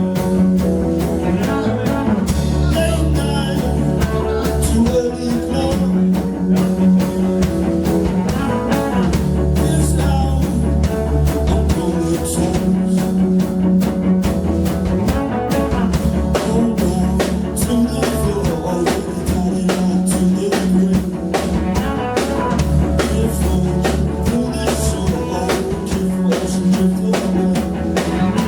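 A live rock band playing a steady groove on electric guitar and drum kit.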